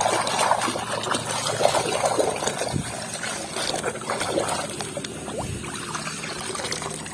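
Water splashing and trickling as a muddy plastic toy is washed by hand in a container of water, with small drips and sloshes, busier in the first few seconds and softer afterwards.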